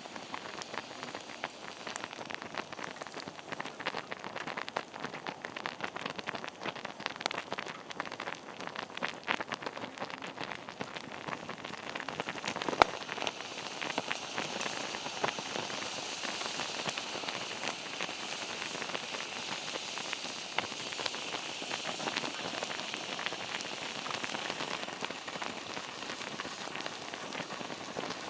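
Wood campfire crackling, with a dense run of small snaps, one sharp pop about thirteen seconds in, and a steadier high hiss in the second half.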